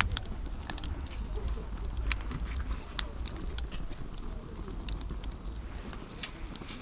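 Wood campfire crackling, with scattered sharp pops at irregular intervals over a low rumble that fades away after about five seconds.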